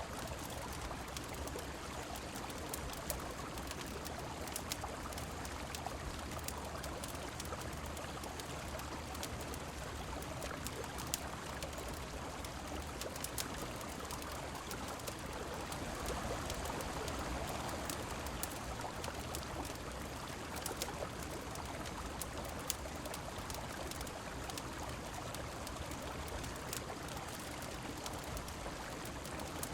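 Steady wash of flowing river water and rain, with scattered sharp crackles from a wood fire. The water swells a little past halfway.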